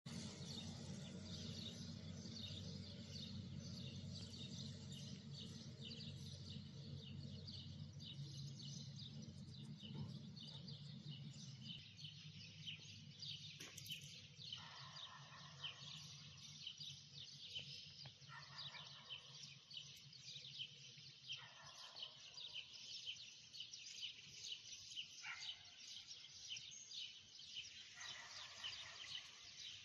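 A dense chorus of small birds chirping, with a low hum underneath for the first dozen seconds. In the second half a lower call repeats every three to four seconds.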